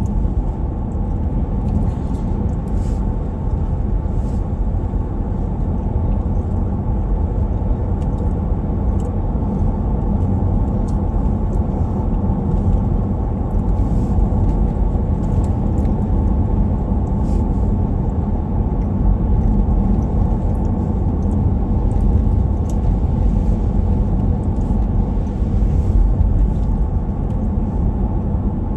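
Steady low rumble of engine and tyre noise heard from inside the cabin of a vehicle driving along a highway.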